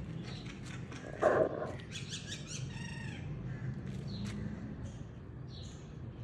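Birds calling outdoors: a run of high, stacked calls from about two to three seconds in, then several short falling chirps. About a second in, a louder short animal call stands out over a steady low hum.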